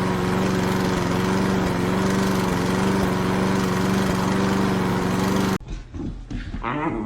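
Lawn mower engine running at a steady pitch, then cutting off abruptly about five and a half seconds in. A short, quieter stretch of voice-like sounds that rise and fall follows near the end.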